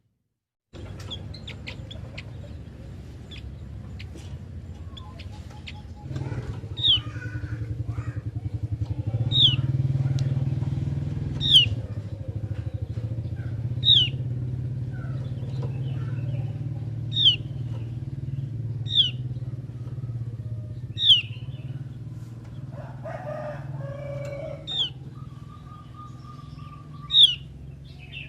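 Opior jawa (Javan grey-throated white-eye) repeating a sharp, high, falling whistle every two seconds or so, over a steady low hum.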